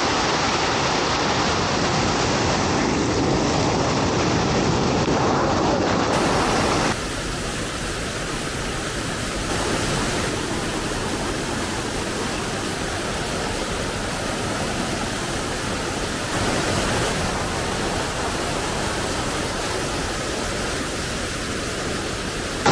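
A small waterfall pouring steadily down rock steps, a constant rushing of water. The rush drops a little in level and changes character about seven seconds in.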